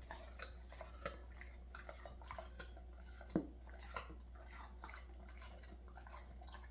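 A dog chewing a piece of apple: irregular wet crunches and clicks, the sharpest about three and a half seconds in.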